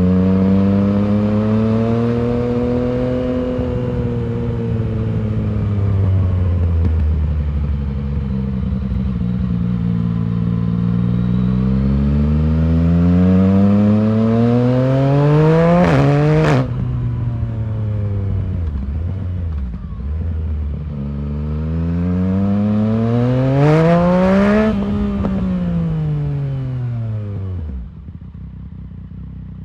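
2019 Yamaha MT-09's 847 cc inline-three engine through an Arrow full exhaust system, revving up and down as the bike rides. Two long hard climbs in engine speed each break off sharply. The revs then fall away smoothly as the bike slows, and the sound drops quieter near the end.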